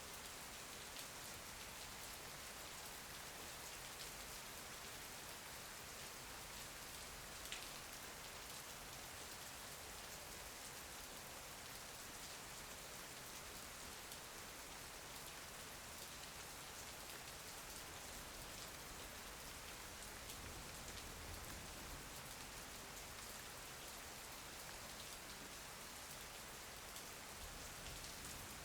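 Steady, even rain patter, with one sharper single drop tick about seven seconds in.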